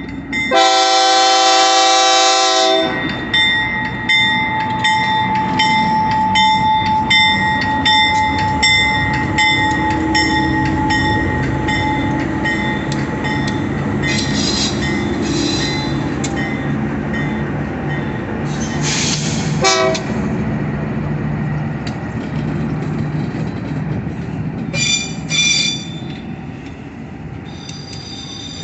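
Train horn sounds one chord-like blast lasting about two seconds near the start. A train then rolls past with a steady rumble, its wheels clicking over rail joints, and brief high wheel squeals come several times.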